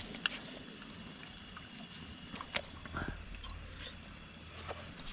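Faint chewing and eating sounds of instant noodles and flatbread eaten by hand, with scattered small clicks and taps.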